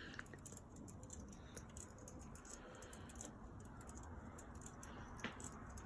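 Near silence: faint room tone with a few small clicks, one sharper click about five seconds in.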